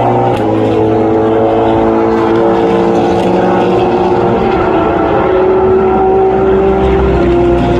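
Several race car engines running at high revs together, their overlapping engine notes held steady and loud, with the pitch shifting a little about halfway through.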